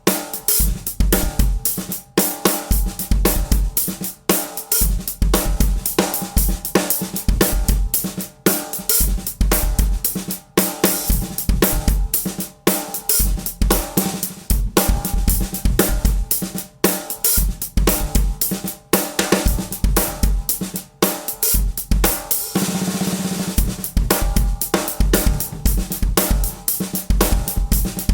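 Drum kit played in a steady groove: bass drum, snare, hi-hat and cymbals, the snare being a Zebra Drums Red Plane snare shelled in London plane wood. The pattern repeats in short bars with a longer cymbal wash late on.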